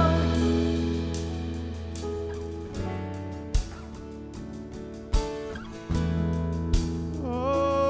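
Worship band playing an instrumental interlude between sung lines: sustained chords and bass that die away, with a few drum hits. The full band comes back in about six seconds in, with a held sung note near the end.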